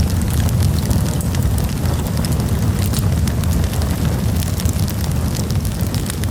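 Campfire of burning wood crackling, with frequent sharp pops and snaps over a steady low rumble of the flames.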